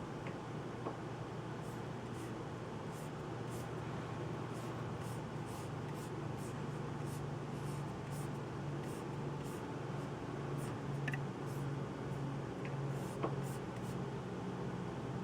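Typing on a computer keyboard: quick, irregular key clicks, a few a second, over a steady low hum.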